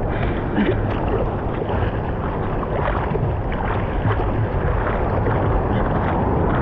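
Wind buffeting the camera microphone over water splashing and sloshing in the surf, a steady noise with low thumps.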